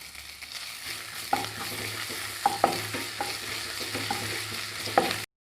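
Finely chopped ginger frying in melted butter in a kadai, sizzling steadily while it is stirred, with several sharp knocks of the utensil against the pan. The sound cuts off suddenly near the end.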